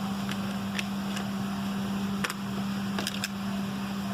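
Steady low mechanical hum, with about six short, sharp high clicks scattered through it.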